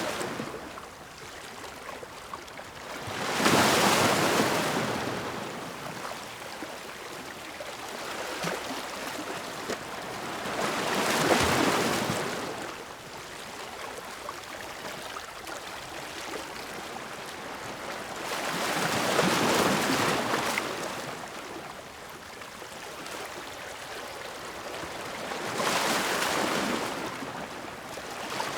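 Ocean waves breaking on a shore: a rushing surge swells up about every seven to eight seconds, four times here, with a softer wash of water between breakers.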